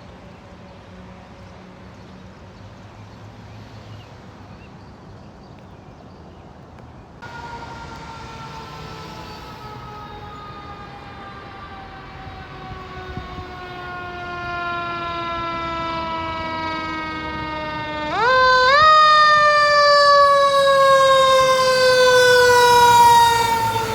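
Fire truck siren approaching, growing louder. Its pitch slides slowly down, then about three-quarters of the way through it winds sharply back up and begins another slow fall.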